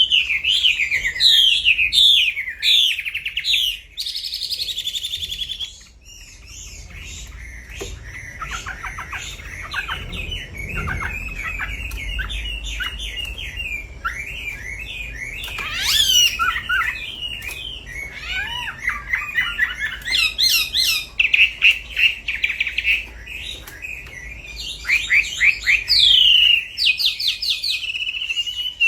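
Recorded songbird singing used as a lure and master song for a wambi: rapid high chirps, fast trills and short whistled phrases follow one another almost without a break, quieter for a couple of seconds early on.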